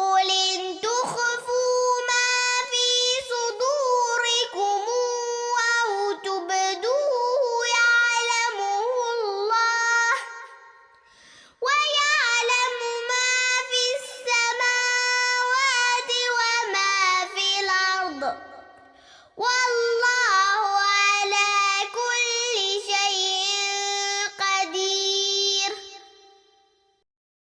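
A young girl reciting the Quran in a melodic chant, in three long phrases with short breaths between them. The last phrase trails off near the end.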